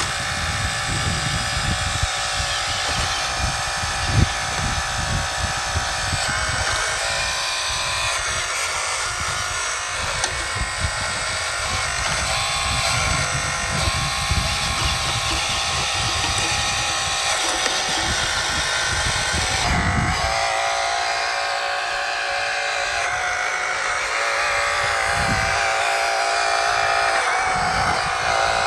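A 1/12-scale hydraulic RC excavator's electric hydraulic pump and drive motors whining steadily as it crawls over rocks. Low wind gusts buffet the microphone until about two-thirds of the way through.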